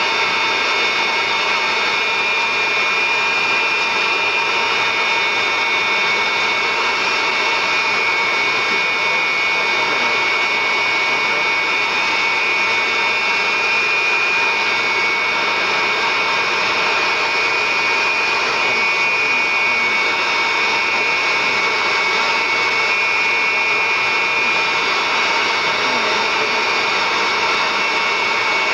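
Jet engines of the Frecce Tricolori's Aermacchi MB-339 trainers running steadily, a loud even turbine whine with a strong high tone that holds without change.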